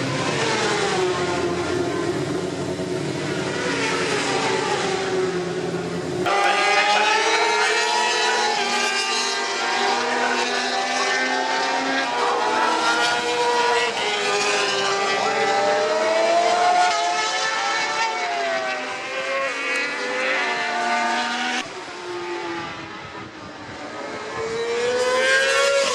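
Racing motorcycle engines at high revs, several at once, their pitch rising and falling through the gears as supersport bikes run on the circuit. The sound changes abruptly twice, as if cut between passes.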